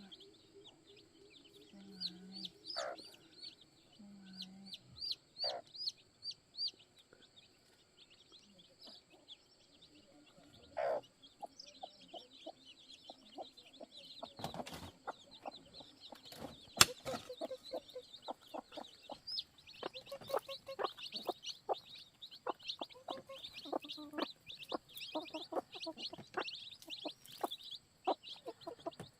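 Chickens: a hen clucking low and her newly hatched chicks peeping in rapid high chirps, with a run of small taps and clicks joining in from about halfway.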